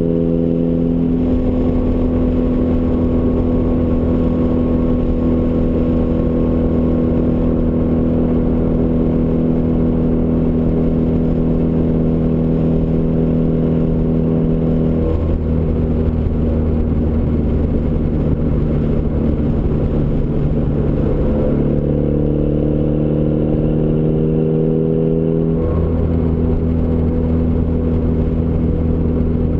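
Turbocharged Ford Escort ZX2's four-cylinder engine running through a custom 3-inch side-exit exhaust: a steady exhaust drone. Its pitch shifts slightly about halfway through and again a few seconds before the end.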